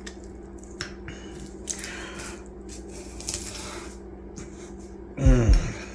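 Soft wet squishes and small clicks of someone chewing juicy smoked chicken. Near the end comes a loud sound that falls steeply in pitch.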